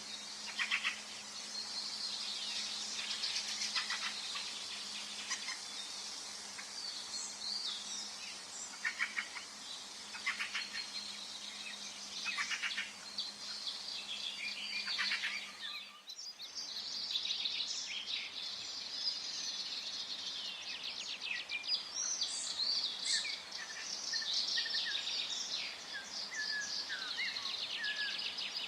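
Forest bird chorus: several birds chirping and trilling at once over a faint steady hiss. About halfway through the sound dips for a moment and resumes, as at a join in the recording.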